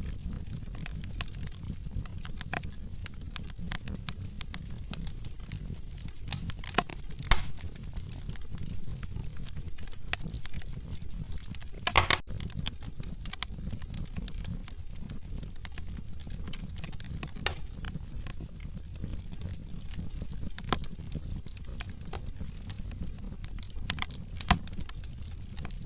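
Wood fire in a fireplace crackling: a steady low rumble of burning logs with scattered sharp pops, the biggest about seven seconds in and about twelve seconds in.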